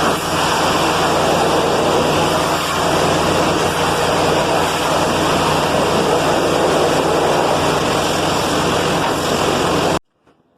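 Trailer-mounted gas-engine pressure washer (3,625 psi, 10.4 gallons per minute) running steadily under load, its engine drone mixed with the loud hiss of the high-pressure spray on concrete and boards. Cuts off suddenly near the end.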